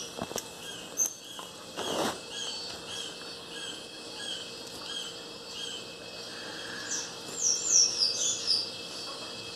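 Small birds chirping: a run of short, even chirps about twice a second, then a few louder, quick falling chirps near the end. A brief rustle comes about two seconds in.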